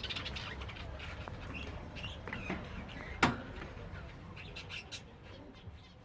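Gouldian finches chirping and calling in a cage, with one sharp click about three seconds in.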